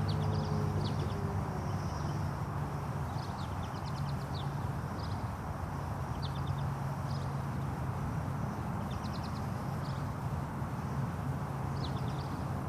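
Second-generation Yamaha R6 with a Racefit Growler exhaust, run without its dB killer, heard as a steady low engine drone at a distance just after a pass. Short bursts of high bird chirps recur every second or two over it.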